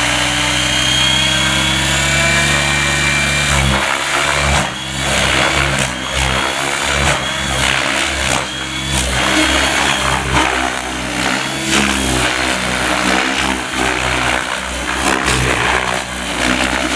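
Gaui X7 radio-controlled helicopter flying at low head speed: a steady rotor and motor hum for about the first three and a half seconds, then the pitch and loudness keep shifting with repeated whooshing surges as it is thrown through 3D manoeuvres.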